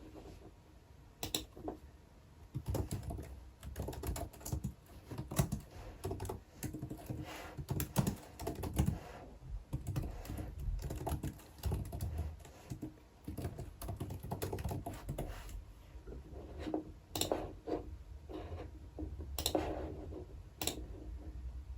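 Typing on a computer keyboard: irregular runs of key clicks with short pauses, and a few sharper single clicks near the end.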